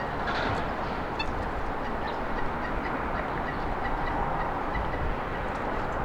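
Steady rumble of road traffic, swelling a little near the middle as a vehicle passes. A few brief bird chirps come about a second in, over a faint, even ticking about four times a second.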